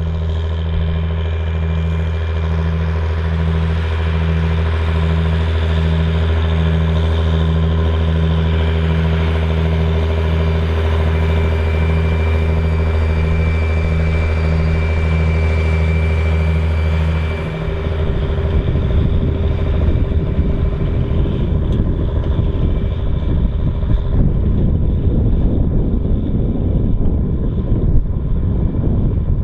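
Large farm tractor engine working in the field: a steady, loud drone with an even pulse a little more than once a second. About seventeen seconds in it changes abruptly to a rougher, noisier running.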